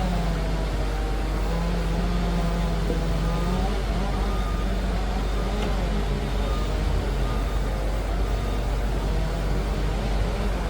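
Liebherr PR 746 crawler dozer's diesel engine running steadily, with a deep, constant rumble and an engine hum whose pitch drifts up and down as it works.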